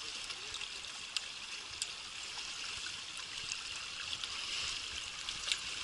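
Steady rushing of a small stream, with a few faint sharp clicks over it.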